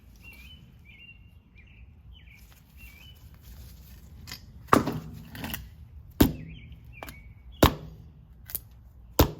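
Krate Tactical OTF knife driven tip-first into a hard surface in an abuse test: four sharp strikes about a second and a half apart, beginning about halfway through. Birds chirp faintly before the strikes.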